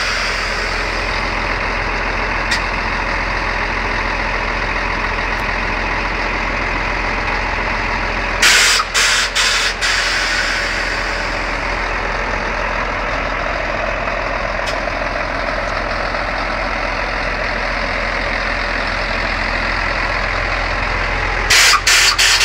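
Scania truck's engine running steadily, with two bursts of compressed-air hissing, the first about a third of the way in, the second near the end, each broken into several short blasts.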